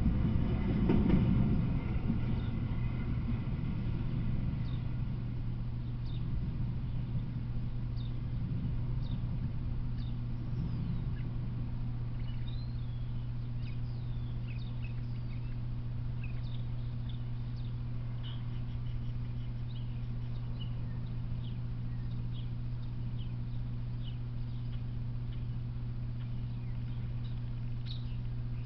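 Rumble of a freight train's cars rolling away on the rails, fading out over the first few seconds. Then scattered short bird chirps over a steady low hum.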